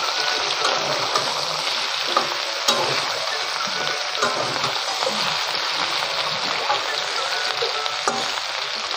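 Drumstick, potato and brinjal pieces sizzling in oil in a metal kadhai while a metal spatula stirs them, with scattered clicks and scrapes of the spatula against the pan.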